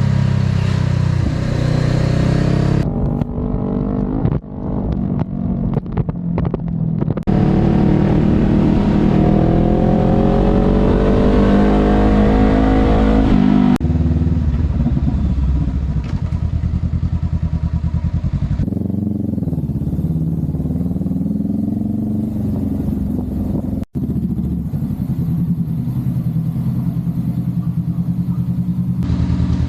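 Honda Rebel 500's parallel-twin engine running under way, its pitch rising as it accelerates through the gears. The sound changes abruptly several times where separate clips are joined.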